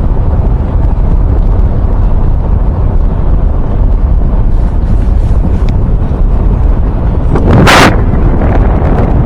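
Wind buffeting the microphone over the low rumble of a moving vehicle, with a brief louder gust of rushing noise about three-quarters of the way through.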